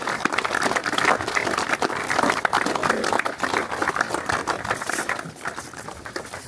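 A group of people applauding, the clapping dying away near the end.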